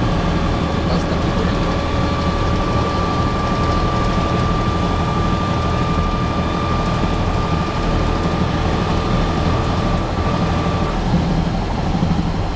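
Train running along the track, heard from inside the carriage: a steady engine drone and rolling rail noise. A thin, steady whine rides on top and fades out about eleven seconds in.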